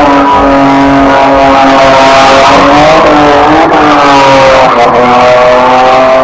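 Car engine held at high revs, its pitch steady with a few slight dips, very loud throughout.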